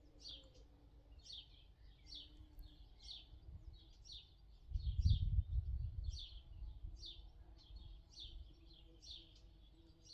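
A small songbird calling in a steady series of short, high, downward-sliding chirps, about one and a half a second. About five seconds in, a brief low rumble rises over it for a second or so.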